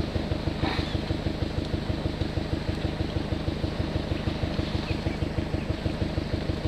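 Vehicle engine running steadily at low revs, an even low throbbing with no change in speed.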